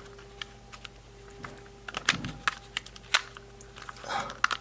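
Light, irregular clicks and taps of hands handling a small plastic toy capsule and the pieces inside it, over a faint steady hum.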